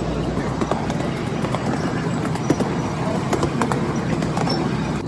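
Miniature ride-on train rolling along its track: a steady rumble with scattered clicks and knocks from the wheels and cars.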